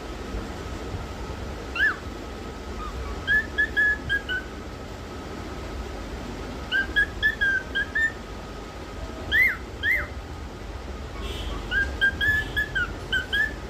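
Pet cockatiel whistling in short phrases of quick notes, with a couple of sharp rising whistles in between, pausing a second or two between phrases.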